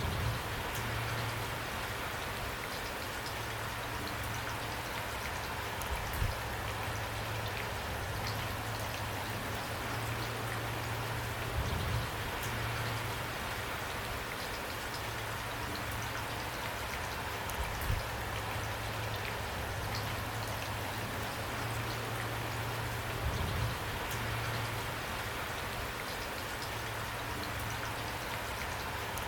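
Steady rain falling, an even hiss of drops, with a short low thud about every six seconds.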